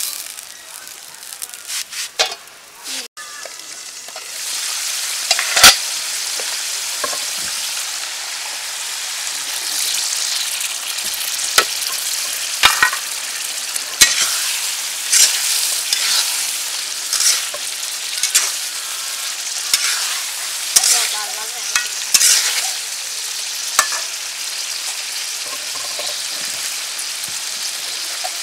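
Spicy onion gravy sizzling and frying in a metal karahi, with a metal spatula scraping and clicking against the pan as it is stirred. The steady sizzle comes in about four seconds in, and sharp clicks of the spatula recur throughout.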